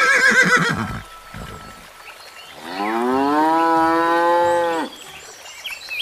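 A horse's whinny trails off in the first second. About two and a half seconds in, a single long cow moo rises in pitch, holds level for about two seconds, and stops abruptly.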